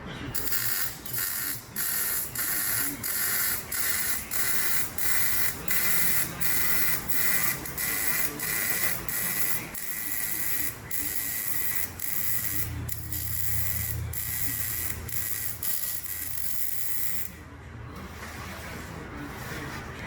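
Metalwork on a car's exhaust pipe: a tool rasps against the metal in repeated strokes, about two a second. A lower steady hum joins about twelve seconds in, and the strokes stop about three seconds before the end, leaving a quieter hiss.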